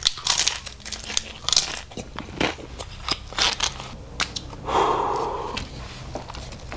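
Crunchy fast food being bitten and chewed close to the microphone, a series of quick crunches throughout.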